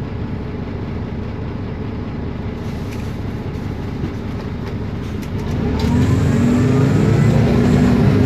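Isobus City 1200 city bus with a MAN D0836 LOH diesel and ZF Ecomat 6HP504C automatic gearbox: a steady low drone, then the bus accelerates about five and a half seconds in, growing louder, with rising whines from the gearbox and differential.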